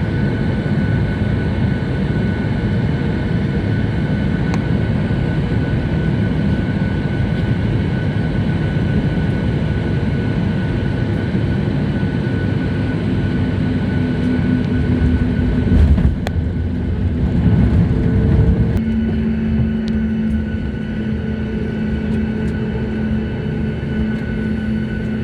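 Airliner cabin noise during landing: a loud, steady rush of engines and airflow, then a sharp thump about two-thirds of the way through, as at touchdown. After it the sound settles into a steadier, somewhat quieter drone with a humming tone as the plane rolls out.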